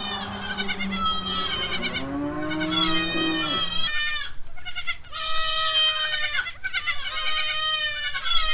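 Newborn Nigerian Dwarf goat kids bleating over and over in high, thin cries, several calls following one another with short breaks between them.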